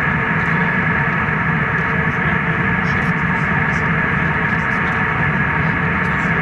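Steady jet-airliner cabin noise in cruise: an even rush of engine and airflow noise with a constant low hum and a faint steady higher tone.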